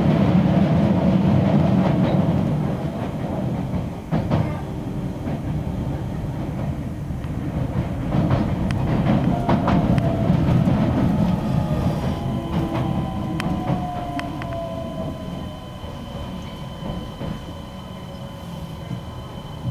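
Interior running sound of a Keisei AE-series limited-express train slowing into a station stop: a low rumble that eases after the first couple of seconds, wheels clicking over rail joints and points, and a motor whine falling in pitch from about halfway through as it brakes.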